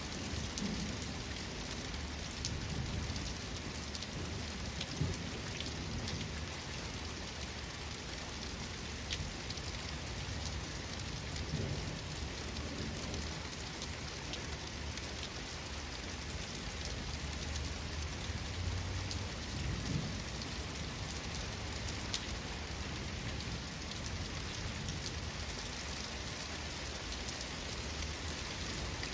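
Steady heavy rain falling, with individual drops ticking on a hard surface, and low rumbles of thunder swelling up now and then, around a second in, near the middle and about two-thirds of the way through.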